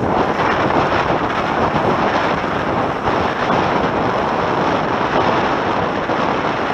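Steady wind buffeting the microphone over the rush of water along the hulls of a Tornado catamaran sailing at speed.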